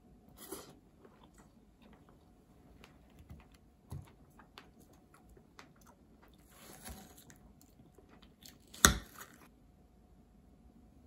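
Someone biting into and chewing a fresh strawberry, with small wet mouth clicks. A spoon scrapes in a ceramic bowl partway through, and a single sharp knock near the end is the loudest sound.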